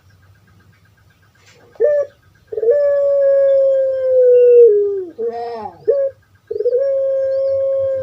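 Puter pelung (Streptopelia risoria) dove calling: a short note, then a long drawn-out coo held at one pitch that drops away at its end, a quick rolling falling phrase, and a second long held coo.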